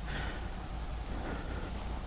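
Motorcycle running, heard as a steady low hum with road or wind noise.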